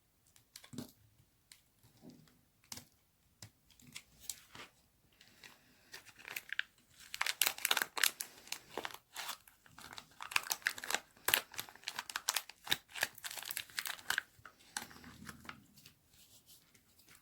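Dry white baby soap being cut, giving crisp crunching and crackling. Scattered single crunches come first, then a dense run of crackling about seven seconds in that thins out again near the end.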